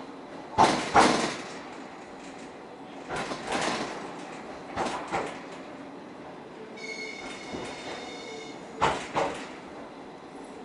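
Electric commuter train running, its wheels clacking over rail joints in paired knocks every couple of seconds over a steady rumble. A brief high squeal rings out for about a second and a half in the middle.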